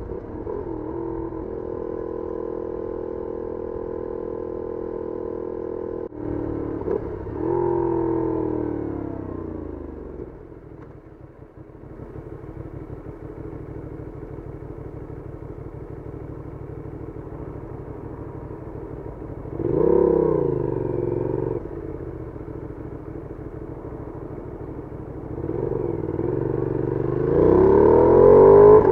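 Benelli Leoncino 800's parallel-twin engine through its stock exhaust, heard from on board while riding. It holds a steady speed at first, drops in pitch and goes quieter as the throttle is closed about ten seconds in, swells briefly about twenty seconds in, then rises steadily in pitch and loudness as the bike accelerates near the end.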